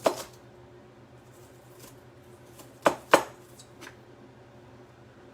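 Kitchen knife chopping red onion on a cutting board: a sharp knock at the start, a few faint taps, then two quick knocks about three seconds in.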